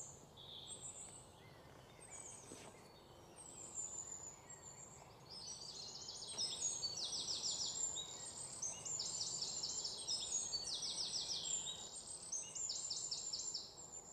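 Birds singing: scattered high chirps at first, then from about six seconds in, short, fast, high trills repeated over and over, over a faint steady background hiss.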